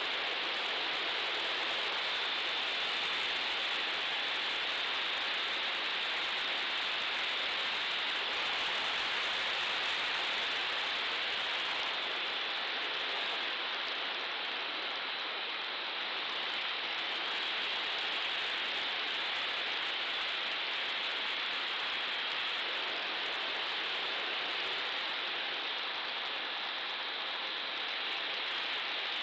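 Steady rushing hiss with no clear motor tone, heard in the onboard audio of a small FPV model plane in flight.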